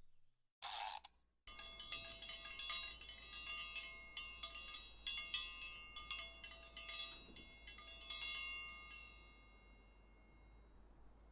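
Wind chimes tinkling: many irregular strikes of high, ringing metallic tones, dying away near the end. They are preceded by a short hiss about half a second in.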